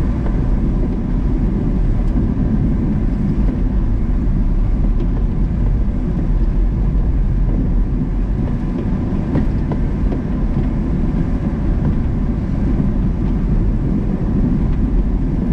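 Small utility truck's engine and drivetrain running steadily as it drives across snow-covered ice, heard from inside its enclosed cab: a constant low rumble.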